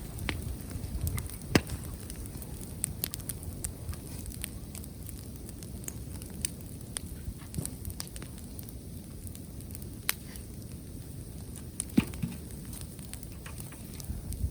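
Wood campfire crackling with irregular sharp pops, two of them much louder, about a second and a half in and near the end.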